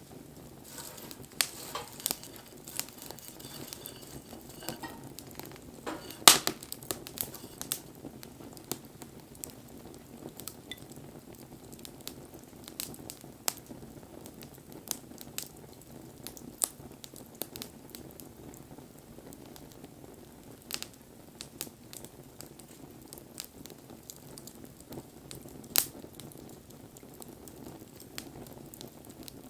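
Wood fire crackling: irregular sharp pops and snaps over a low, steady hiss of burning. The loudest pop comes about six seconds in, with another strong one near the end.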